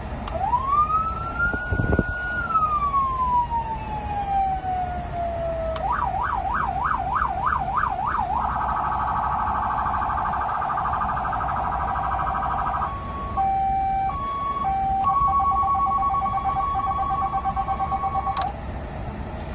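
Code 3 electronic police siren cycling through its tones: a wail that rises, holds and winds slowly down, then a fast yelp of about three sweeps a second, then a very fast warble, then a two-tone hi-lo alternating between two pitches, stopping near the end.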